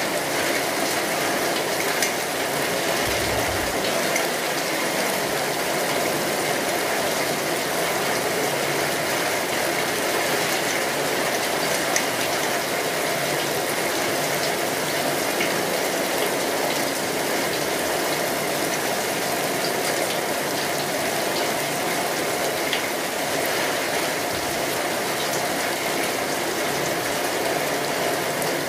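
Steady rain, an even hiss at constant strength, with a few sharper ticks here and there.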